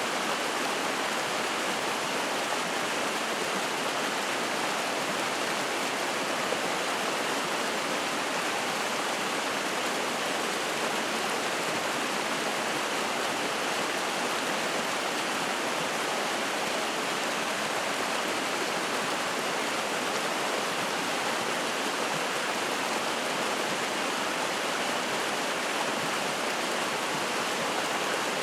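Spring-fed mountain stream rushing and splashing over rocks, a steady, even rush of water.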